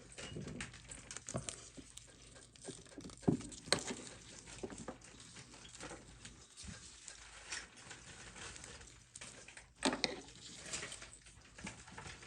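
Small clicks, taps and scrapes of hand tools and watch parts being handled on a watchmaker's bench, with two sharper knocks, one about three seconds in and one near ten seconds.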